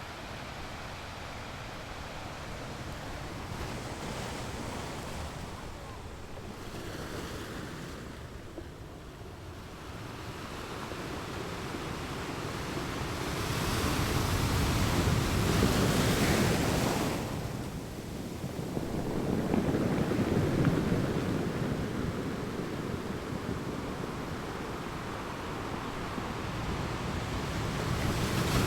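Ocean waves breaking and washing up a beach, the rush rising and falling in swells. The loudest wave comes about halfway through, another follows a few seconds later, and a third builds near the end.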